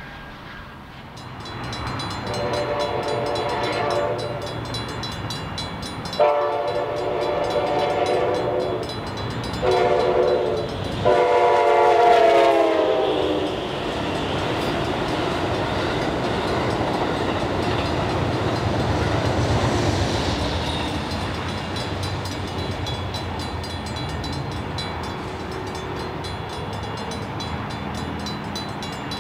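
Amtrak Surfliner diesel locomotive's horn blowing the grade-crossing signal: two long blasts, a short one and a final long one. Then the train's steady rumble as it runs past, swelling and easing off.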